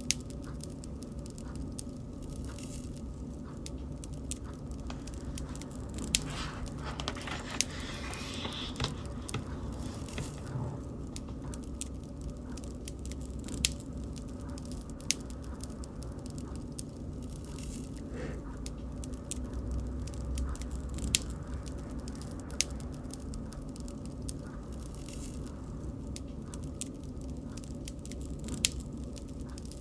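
Wood bonfire crackling: a low steady rumble of burning with sharp pops scattered throughout, and a few seconds of denser hissing crackle about seven seconds in.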